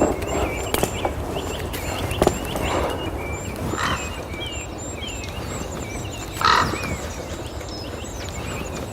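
Axe chopping at a pine trunk being felled: a few sharp knocks and some duller, longer cracking sounds from the wood. Small birds chirp throughout.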